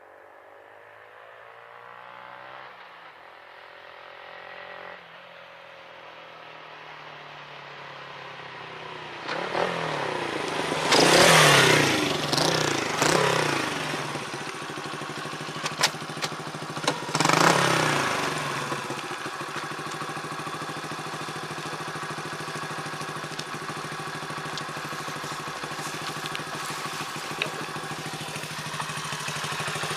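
Honda Super Cub single-cylinder four-stroke through an aftermarket up-type muffler: the engine grows louder while it accelerates through the gears, is loudest at full throttle about a third of the way in with pitch swings and a second loud surge a little later, then settles into a steady idle for the last ten seconds or so.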